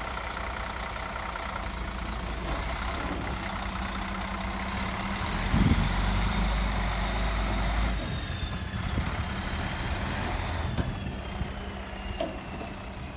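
2007 Sterling tandem-axle grain truck's diesel engine idling steadily, louder for a couple of seconds with a thump about five and a half seconds in.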